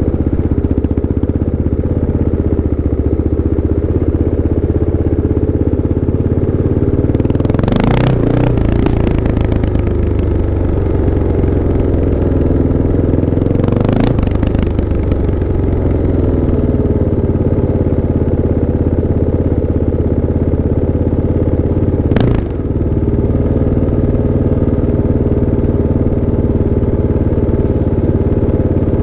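Kawasaki KLX 650's single-cylinder four-stroke engine running steadily, its pitch swinging up and down twice in the first half, with one short sharp knock about three quarters of the way through.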